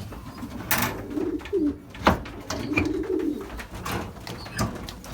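Racing pigeons cooing in the loft, low repeated coos, with a few sharp clicks or knocks among them, the loudest about two seconds in.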